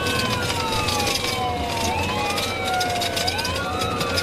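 Police car sirens wailing, at least two overlapping, each pitch rising quickly and then falling slowly, over a steady low rumble of vehicle noise.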